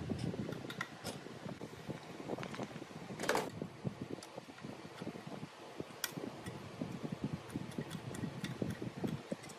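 Irregular light clicks and knocks of hand work on metal parts, with one longer, louder scraping clatter about three seconds in.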